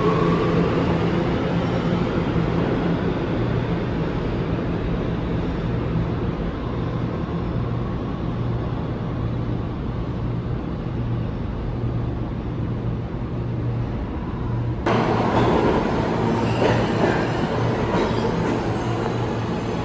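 A New York City subway train running through the station: a steady rumble with a low electric hum, and a rising motor whine at the very start. About 15 seconds in, the sound cuts abruptly to another recording of a train, with sharper clicks and rattles.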